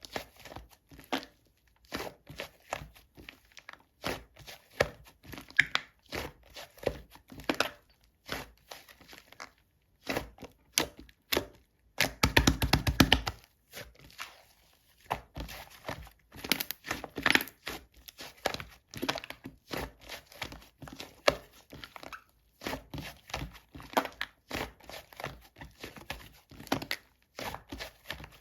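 Hands playing with slime: squeezing, poking and pressing it into a long irregular run of short sticky clicks and pops, with a louder patch of rapid crackling about twelve seconds in.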